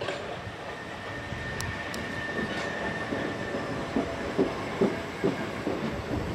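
Southern Class 377 Electrostar electric train passing close by. A steady high whine holds for the first few seconds, then the wheels clack over rail joints at about two beats a second.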